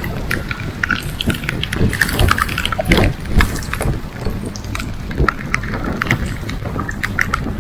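Wind rumbling on the microphone aboard a small boat at sea, with many small ticks and clicks scattered through it and a short, louder grunt-like sound about three seconds in.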